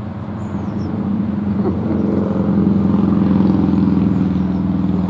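A road vehicle passing close by: a steady engine hum that swells over the first few seconds and then eases off.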